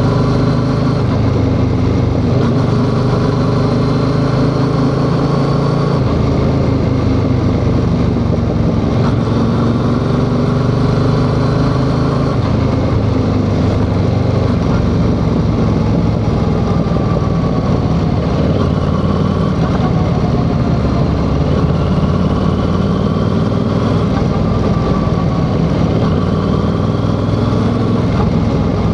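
Yamaha XSR700's 689 cc parallel-twin engine running on the move, its pitch rising in several long climbs and dropping back as it pulls through the gears.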